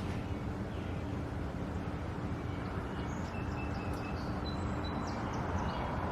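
Steady low outdoor rumble with a faint hum, and faint, short, high bird chirps and whistles from about halfway through to near the end.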